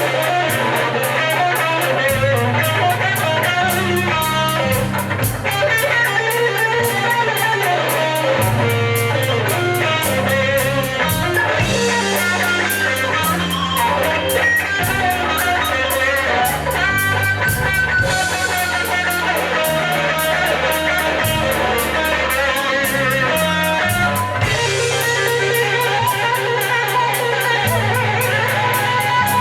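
Live blues band playing an instrumental break: a guitar lead with bending notes over bass and drum kit keeping a steady beat.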